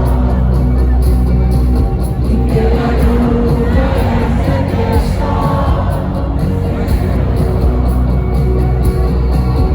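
Loud live band music with a heavy, steady bass, singing voices and crowd noise over it.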